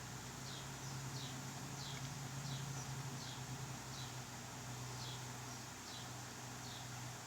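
A small bird chirping faintly, short high falling chirps about once a second, over a steady low hum.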